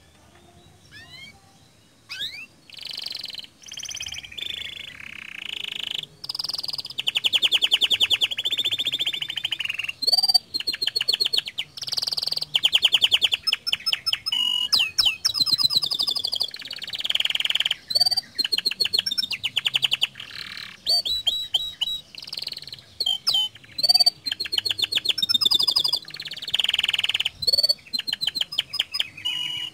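Domestic canary singing a long, gacor-style song of rapid trills, whistled notes and quick pitch glides, starting about two seconds in.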